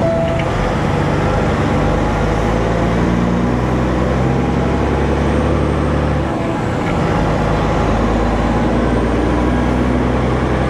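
Diesel engine of a Peterbilt 379 semi truck running steadily while driving, with road noise. About six seconds in, the engine note breaks off briefly and settles at a different pitch.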